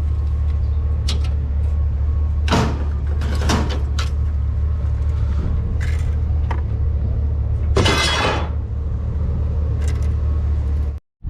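A vehicle engine idling steadily under a series of clanks and rattles of scrap being handled and loaded, with a longer rattle about eight seconds in.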